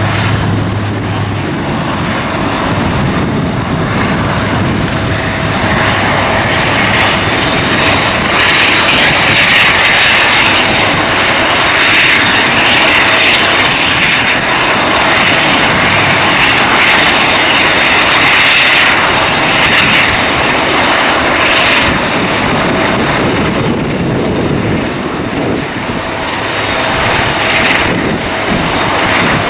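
Airliner engines running loudly and steadily, with a high whine that swells from about six seconds in and fades after about twenty seconds, over a broad rushing noise.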